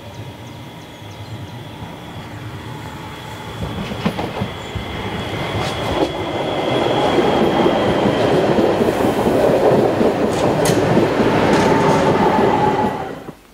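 An ÖBB Talent electric multiple unit passes close by on a curved track. Its running noise builds to a loud rush as it goes by, with a steady high squeal from the wheels on the curve and a few sharp clicks over the rail joints or points. The sound cuts off suddenly near the end.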